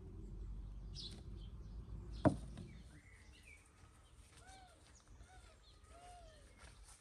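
Small songbirds chirping outdoors: a run of short, arched chirps in the second half. A single sharp knock sounds about two seconds in, over a low outdoor rumble.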